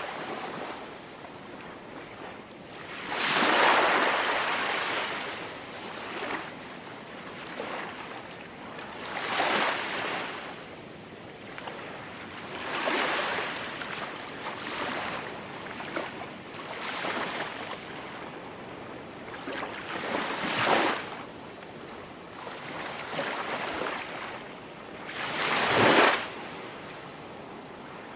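Ocean waves washing onto a tropical beach, one swell of surf every few seconds over a steady hiss of water. The biggest waves come a few seconds in and near the end.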